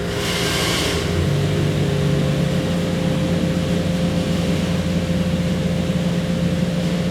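Jeep 4.6-litre stroker inline-six running at a steady speed on an engine dyno, with a brief hiss in the first second.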